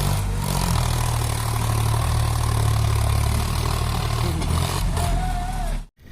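Tractor engine running loud and steady under load as the stuck tractor works to get free; the sound cuts off abruptly near the end.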